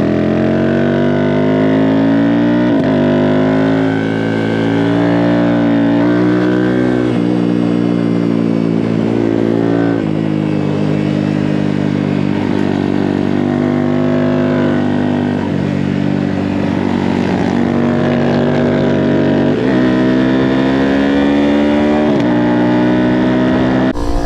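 Small Honda single-cylinder minibike engine at full throttle around a track, its pitch climbing and then dropping sharply every few seconds as it shifts gear or brakes for corners.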